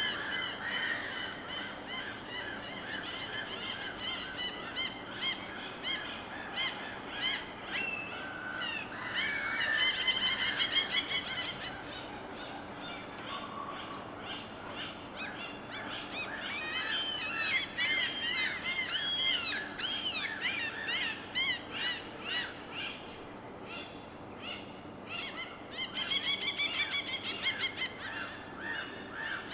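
Birds calling in bursts of short, repeated pitched calls over a steady low background. There are flurries about ten seconds in, a busier stretch of rapid rising-and-falling calls from about sixteen to twenty-one seconds, and another run near the end.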